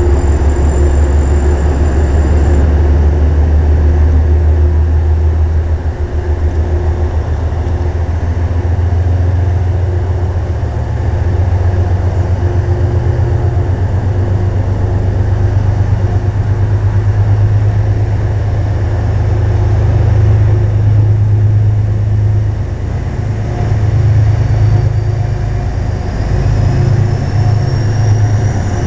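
Steady low rumble of a train standing at a station platform, with a faint rising whine near the end.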